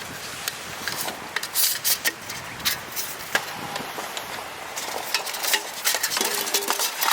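Irregular clicking, knocking and scraping of objects being handled, with denser clusters of knocks about 1.5 seconds in and near the end.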